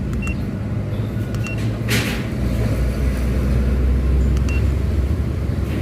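Steady low vehicle engine rumble that swells for a couple of seconds in the middle, with a few short high electronic beeps and a sharp click about two seconds in.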